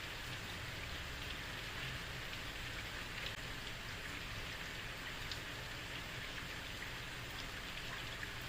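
Heavy rain falling steadily on a street, an even hiss with scattered drop patters and a low rumble underneath.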